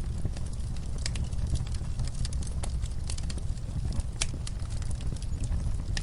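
Wood fire in a fireplace burning with a steady low rumble and irregular sharp crackles and pops, one louder pop about two-thirds of the way through.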